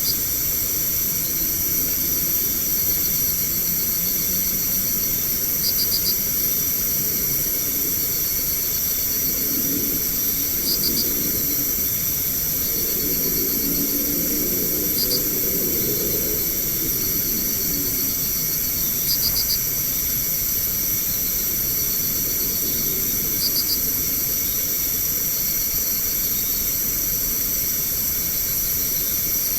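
Night insect chorus: crickets trilling steadily in several high tones. A short burst of two or three quick chirps repeats about every four to five seconds, and a faint low rumble rises and fades in the middle.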